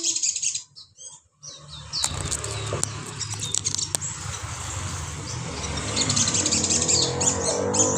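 Small songbird chirping in quick, high calls. From about a second and a half in, a steady low hum and hiss runs under the chirping.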